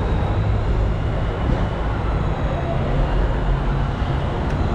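Steady background din of a crowded show floor: a low rumble under a murmur of distant voices.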